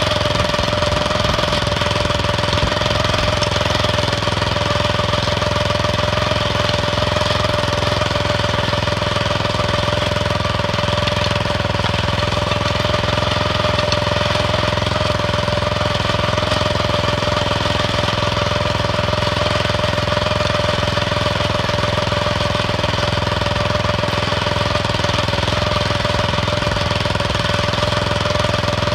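Planet Jr cultivating tractor's small engine running at a steady speed while the tractor pulls finger weeders through onions, an even drone that does not change.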